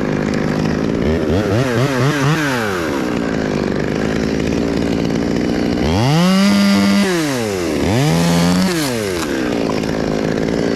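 Two-stroke chainsaw running, with quick throttle blips about a second in, then revved up twice to a high steady pitch for about a second each, around six and eight seconds in, dropping back between.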